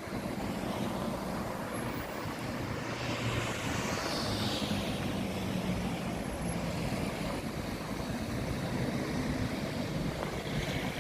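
Road traffic running past, a vehicle swelling louder and fading about four seconds in, over a steady rumble of wind on the microphone.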